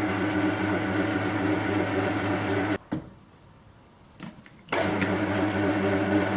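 Metal lathe running steadily as it turns the freshly cast brass piece, a steady hum with a clear pitch. It cuts off abruptly a little under halfway through, leaving near quiet for about two seconds, then comes back just as abruptly.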